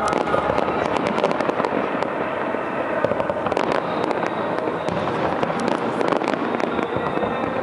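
Fireworks display: a dense, continuous barrage of shells bursting, with many sharp bangs over steady crackling.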